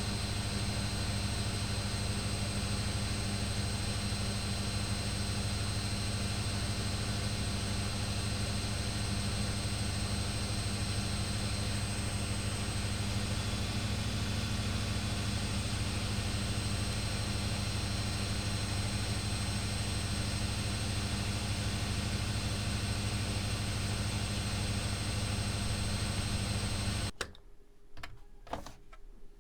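Privileg Classic 30612 washing machine running with a steady, even hum. The hum cuts off suddenly near the end, followed by a few sharp clicks.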